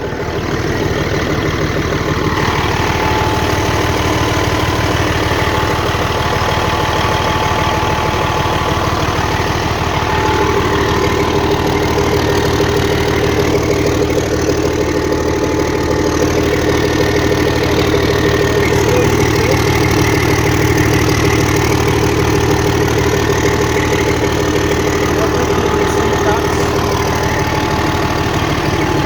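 Bulldozer diesel engine running steadily at idle on a test run just after an engine repair, run to check for leaks.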